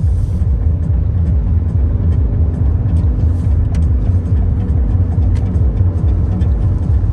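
Steady low rumble of a car on the move, with a few faint light clicks over it.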